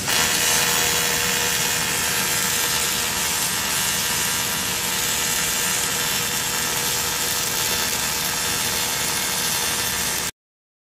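Steady, loud hissing noise of metalworking in a welding workshop, even throughout with a faint steady hum under it, cutting off abruptly near the end.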